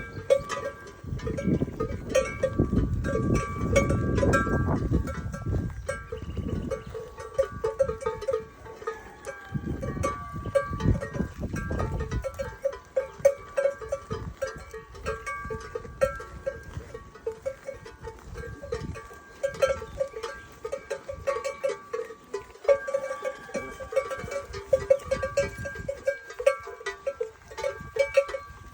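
Metal bells worn by water buffalo clanking irregularly as the animals move, with a low rumble during the first six seconds and again around ten seconds in.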